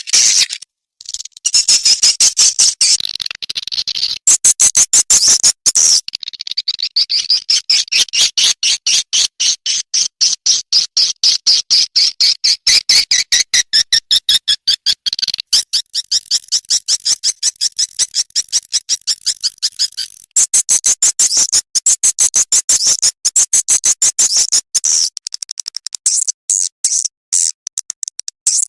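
Recorded swiftlet calls played as a lure for a swiftlet nesting house: dense trains of rapid, high twittering chirps with brief breaks about a second in and again about two-thirds of the way through.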